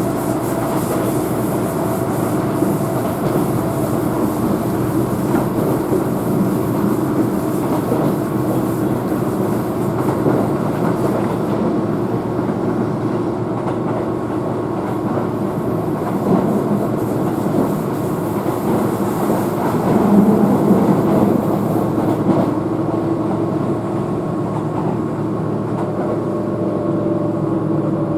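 Keihan electric train heard from inside the passenger car while running, a steady rumble of wheels on rail with a faint clickety-clack and steady humming tones, swelling slightly about two-thirds of the way through.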